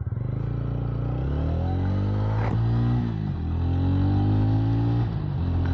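TVS Ronin 225's single-cylinder engine pulling away and accelerating hard. The revs climb, drop at an upshift about three seconds in, climb again, and drop at another shift near the end.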